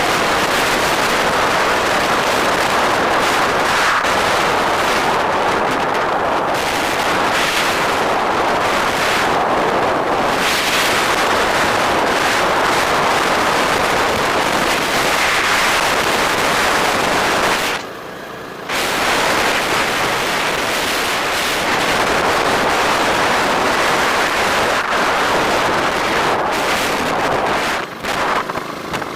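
Wind buffeting the microphone on a moving bike: loud, steady rushing noise that drops away briefly about two-thirds of the way through and flickers near the end.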